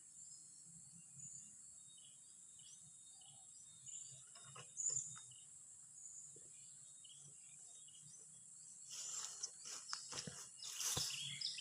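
Steady high insect buzzing, with a few scattered clicks and, in the last few seconds, louder rustling noise.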